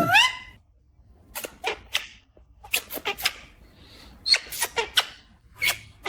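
Pet parrot calling: one short rising call at the start, then a string of about ten brief, sharp, high chirps and squawks.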